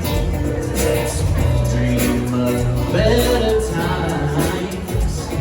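Live band playing an instrumental passage: bass, drums and plucked strings.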